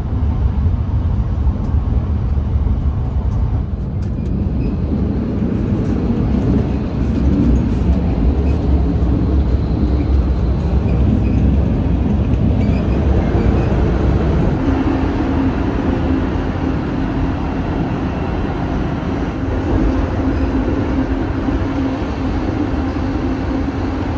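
Interior running noise of a Hayabusa Shinkansen bullet train in motion, heard from inside the car: a steady, deep rumble. A low steady hum joins about two-thirds of the way through.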